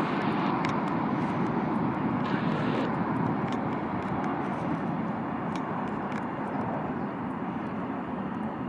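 Jet airliner engine noise, a steady rushing rumble that slowly fades.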